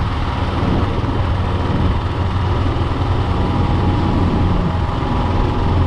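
Steady vehicle engine and road noise while driving, with a faint steady whine running through it.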